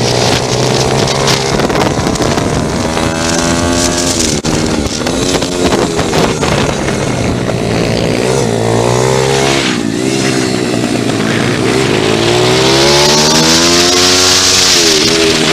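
Pit bike engine revving up and easing off again and again as it is ridden round a track, its pitch climbing and dropping several times. A rushing hiss grows stronger near the end.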